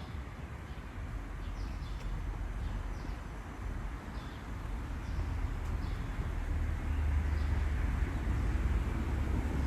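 Outdoor city street ambience: a steady low rumble that grows louder in the second half, with a few faint, short high chirps scattered through it.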